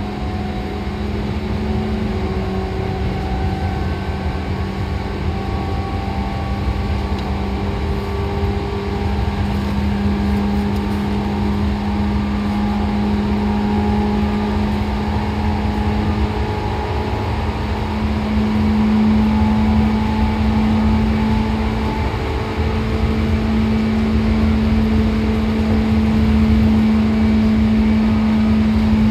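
Seibu 2000 series electric train running: a steady rumble under a constant hum, growing somewhat louder in the second half.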